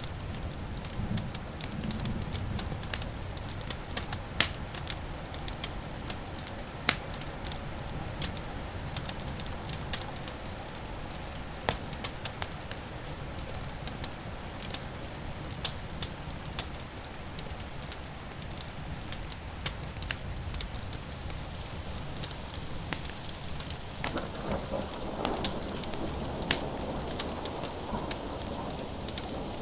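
Wood fire crackling, with sharp pops scattered irregularly over a low, steady rumble. About 24 seconds in, a rolling rumble of distant thunder begins to build.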